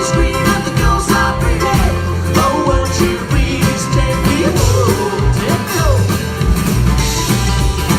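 Acoustic band playing a bluegrass-style rock cover, guitar to the fore over a steady beat.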